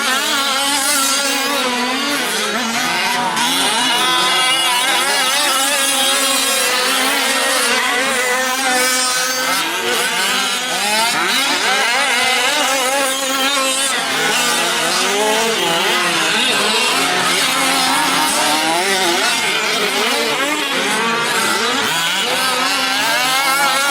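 Several 1/5-scale gas RC trucks racing, their small two-stroke engines buzzing together with pitches that keep rising and falling as they rev up and back off.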